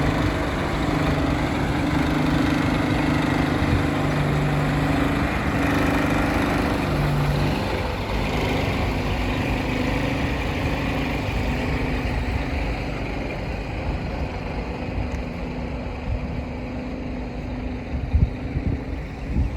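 Scania R460 truck's 12-litre six-cylinder diesel engine running steadily at idle, with a few short knocks near the end.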